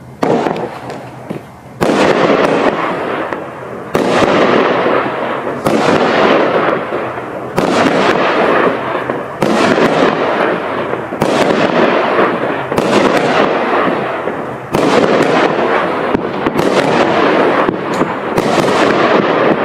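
200-gram, 12-shot consumer firework cake firing in sequence, about one shot every two seconds. Each sharp report is followed by a noisy break that fades over a second or so.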